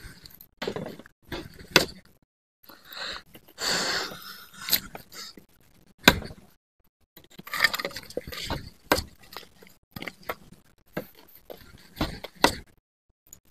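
Irregular knocks, clicks and scraping of things being handled, in short bursts with silent gaps between; the sharpest knocks come about two and six seconds in.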